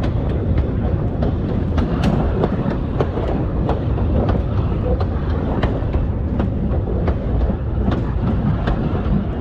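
Savannahlander 2000 class diesel railmotor running along the track: a steady low rumble of wheels on rail with frequent, irregular sharp clicks and rattles.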